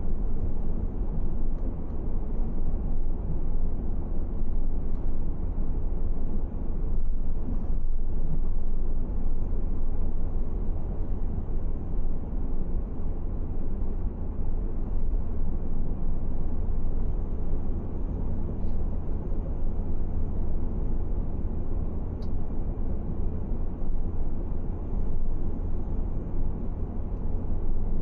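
Steady low rumble of a car driving along: engine and tyre noise.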